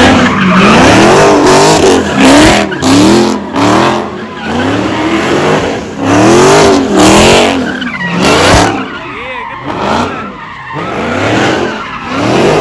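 A car doing donuts: the engine revs rise and fall about once a second as the rear tyres spin and squeal on the pavement.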